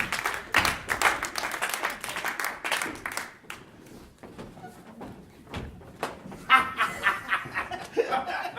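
Audience laughing and clapping, fading out after about three seconds; voices come back near the end.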